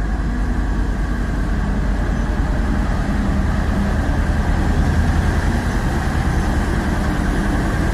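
Heavy truck engine idling, a steady low rumble that starts and stops abruptly like an edited-in clip.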